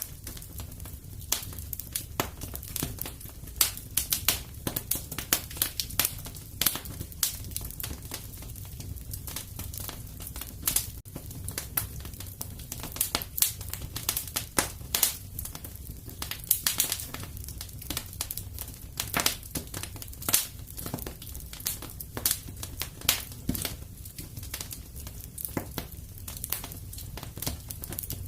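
Wood fire crackling in a fireplace: many irregular sharp pops and snaps, a few louder than the rest, over a steady low rumble of the flames.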